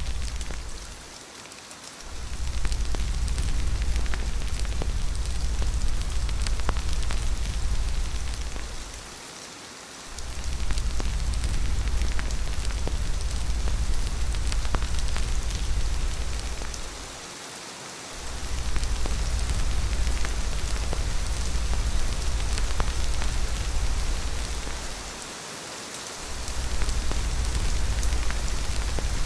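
Steady heavy rain, dense patter across the whole range, over a deep low rumble that dips away for about a second roughly every eight seconds.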